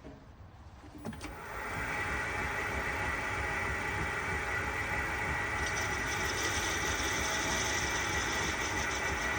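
Metal lathe switched on with a click about a second in, then running up and settling into a steady mechanical hum with several whining tones. A higher hiss joins a little past halfway.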